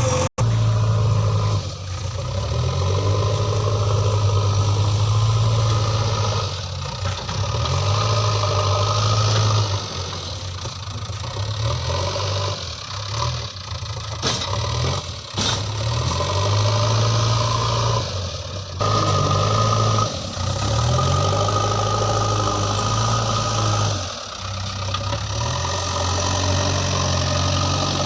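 JCB 3DX backhoe loader's diesel engine running, its level rising and falling every few seconds as it works, with a high whine in some stretches and a couple of sharp knocks midway.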